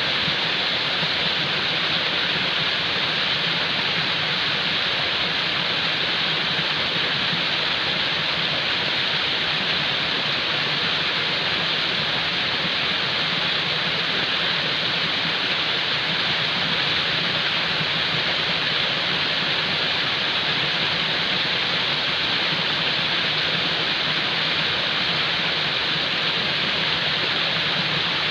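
Falling water rushing in a steady, unbroken hiss, as from a waterfall.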